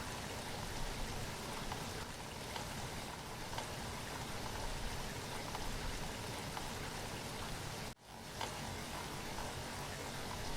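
Steady rainfall, an even wash of rain with scattered individual drops ticking. The sound cuts out for an instant about three-quarters of the way through, then picks up again.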